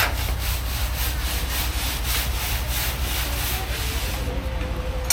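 Rhythmic scraping or rasping, about three strokes a second, fading out near the end, over a steady low hum.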